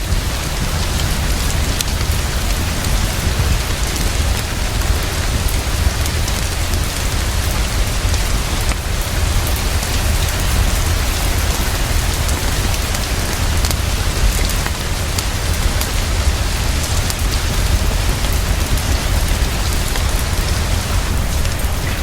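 Heavy, steady rainfall with a deep low rumble underneath and scattered sharp ticks.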